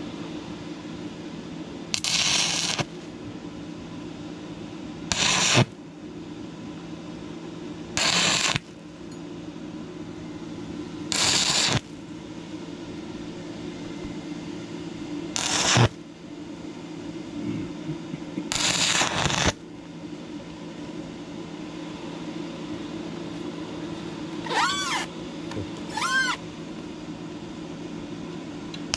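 Stick-welding arc crackling in six short bursts, each under a second, as 6011 rods are struck in brief tacks to fill holes in thin rusty, painted metal. A steady low hum runs between the bursts, and two short squeals rise and fall in pitch near the end.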